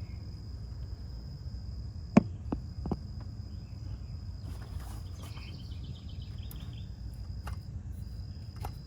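A few light clicks and knocks as an engine's accessory-drive pulley is handled and spun by hand with the serpentine belt off. The loudest is a sharp click about two seconds in, followed by two fainter ones. The pulley itself runs smooth and quiet, with no bearing growl, over a steady high insect trill and a low background rumble.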